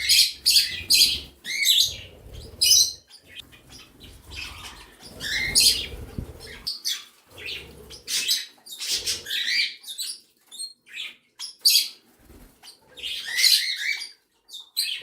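A mixed flock of pet birds, budgerigars among them, chirping and chattering in quick, overlapping calls.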